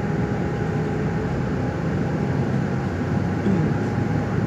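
Steady low rumble of a moving vehicle, with a faint steady whine on top.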